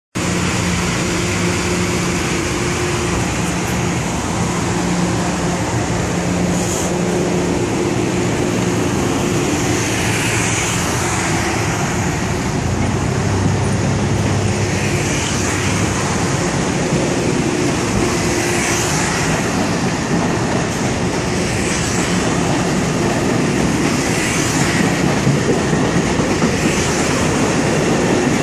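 Long Island Rail Road Budd M3 electric multiple-unit train departing and rolling past at close range: a steady rumble of steel wheels on rail, with a low hum in the first several seconds and a clatter recurring every few seconds as the cars pass.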